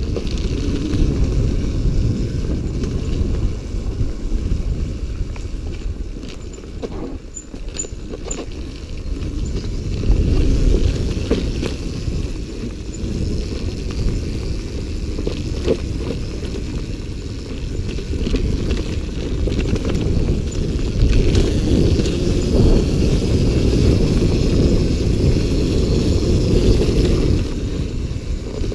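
Dirt bike being ridden: the engine runs amid rough, dense noise, and the loudness rises and falls.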